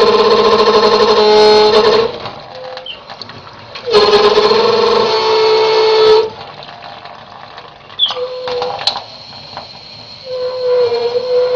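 Kitchen sink water tap with a worn internal rubber seal, giving a loud, wavering pitched tone under strong water pressure instead of the normal hiss. The tone comes and goes: for about two seconds, again for about two seconds from about four seconds in, briefly near eight seconds, and again from about ten seconds in.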